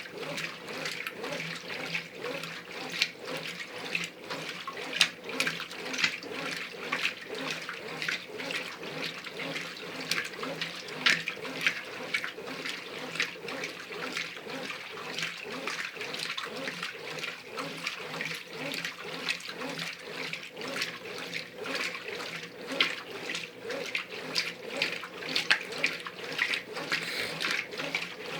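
Brastemp Ative 11 kg top-loading washing machine agitating its load: water and clothes sloshing and splashing in the tub in an irregular churn, over a faint steady motor hum.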